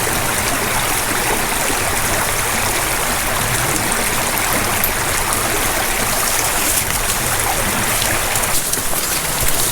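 Steady rushing water of a creek cascade, an even full noise with no break. A few light clicks come in near the end.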